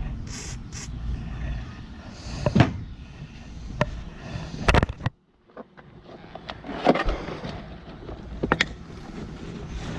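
A few short hisses of an aerosol spray in the first second, then scattered sharp metal clicks and knocks of hand-tool work on the condenser fan motor parts, over a low steady rumble.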